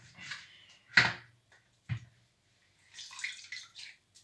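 Lemon half squeezed by hand, juice dripping and splashing into a pot of chicken pieces, with a sharp knock about a second in and a smaller one near two seconds.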